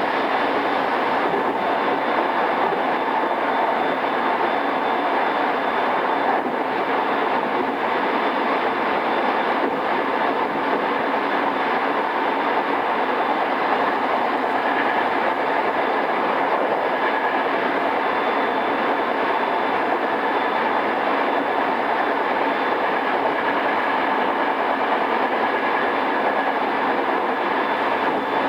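Running noise inside a motor car of a JR East E217 series electric multiple unit, in its original pre-renewal form, travelling steadily at speed. Wheel and track noise mixes with a faint, steady high whine, and the sound is dulled by cassette tape.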